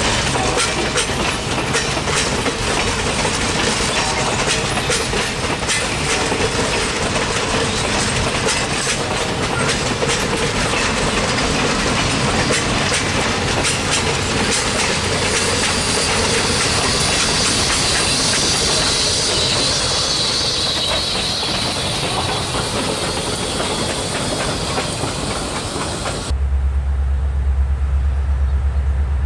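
A passenger train's coaches rolling past, wheels clicking steadily over the rail joints. About halfway through, a high hiss joins as the trailing Baldwin 2-8-0 steam locomotive goes by. Near the end the sound cuts abruptly to a steady low rumble.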